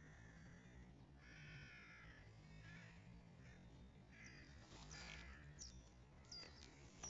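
Faint wild birds calling: a harsh call with several pitch layers about a second in, then a run of short, high chirps that drop in pitch.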